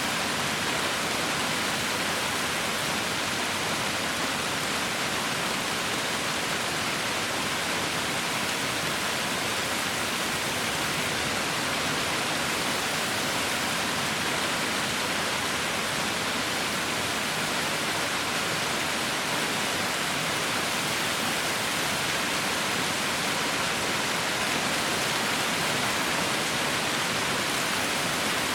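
Heavy rain falling steadily, a dense even hiss with no single drops or thunder standing out.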